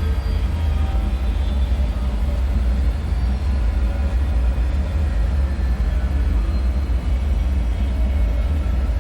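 Dark ambient drone: a steady deep rumble with faint, drifting tones above it, an eerie bunker ambience soundscape.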